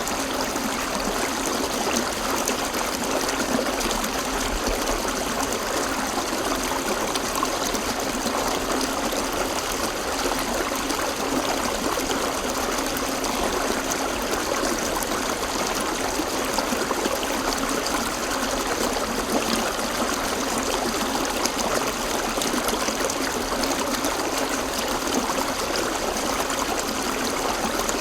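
River water flowing and splashing over rocks, a steady, unbroken rushing.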